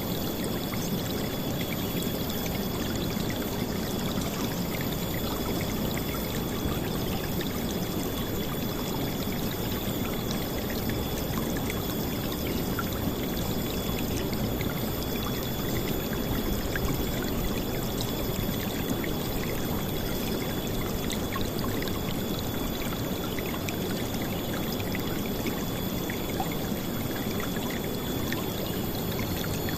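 River water flowing and splashing in a steady, loud rush, with no let-up. A thin, steady high tone runs faintly above it.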